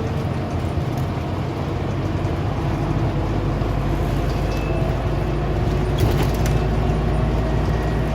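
Scania OmniCity single-deck bus heard from inside the saloon while running: a steady low diesel engine drone with road noise, and a few brief rattles about six seconds in.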